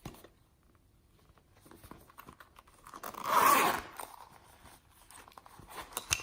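Close crackling and tearing handling sounds from slime-mixing materials. A single loud, noisy burst lasts just under a second about three seconds in, with lighter crackles before and after it.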